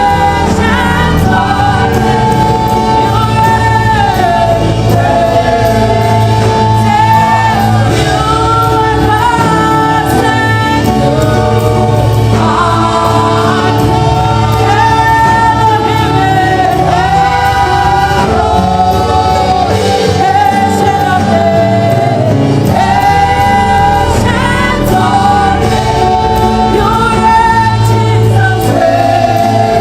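Gospel choir singing with band accompaniment and a steady bass line.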